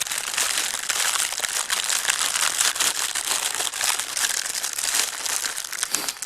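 Plastic food wrapper crinkling steadily as a packet of jammy buns is handled: a dense run of small crackles throughout.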